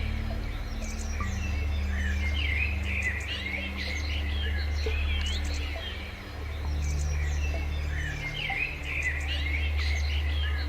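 Birds chirping and trilling in quick repeated clusters over slow background music with sustained low notes that change every second or two.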